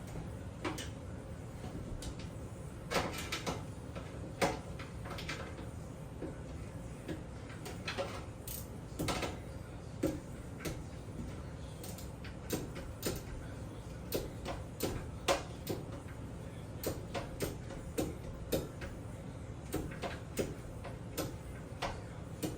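Irregular sharp clicks and knocks of hands fitting and handling parts of a bathroom exhaust fan, several a second at times, over a steady low hum.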